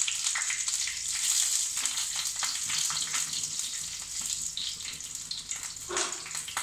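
Crushed garlic cloves and slit green chillies sizzling and crackling in hot mustard oil in a frying pan, slowly growing quieter.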